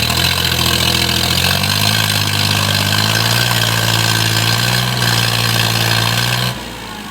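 Tractor engine running loud and steady, its pitch shifting a little as it labours with a stuck sugarcane trailer. The sound drops sharply about six and a half seconds in.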